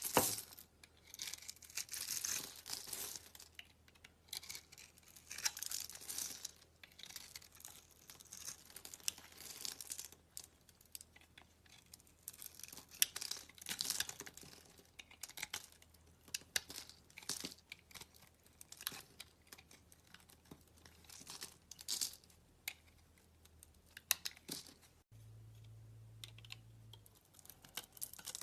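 Slime being squeezed, stretched and poked by hand, giving irregular bursts of crackly, sticky noise with small sharp clicks and pops. About 25 seconds in there is an abrupt break, then a short quieter stretch with a low hum.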